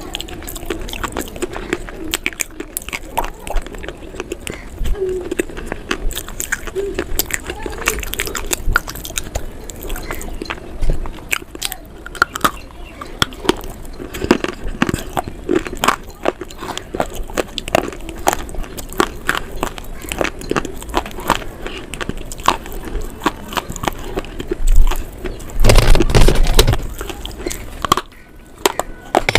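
Close-miked crunching and chewing: someone biting into and chewing something brittle, with rapid, irregular crisp crackles. About 25 seconds in there is a louder burst of noise.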